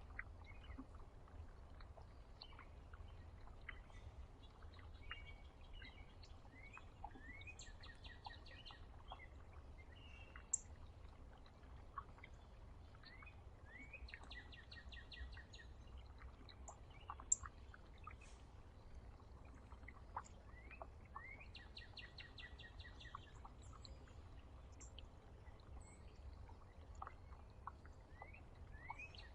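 Wild songbirds at a feeder, faint: one bird repeats the same song, a few rising notes then a fast trill, about every seven seconds, among scattered chirps. Two sharp clicks stand out, one about ten seconds in and one about seventeen seconds in, over a steady low rumble.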